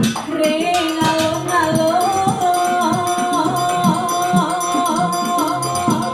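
Live Gandrung folk music: a sustained melody of held, stepping notes over a steady beat of drum strokes and jingling percussion.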